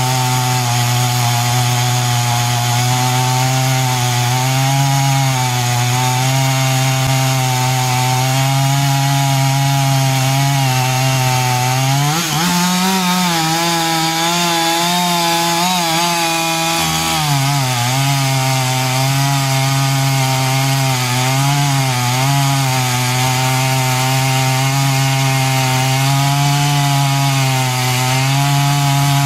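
Chainsaw running at high revs, cutting through a large tree's wood. Its engine note rises about twelve seconds in and drops back around seventeen seconds.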